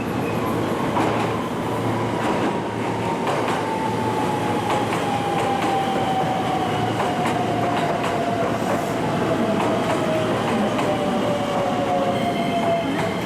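Electric train pulling into a station platform, its traction motor whine falling slowly and steadily in pitch as it brakes, over the rumble and clicking of wheels on the rails.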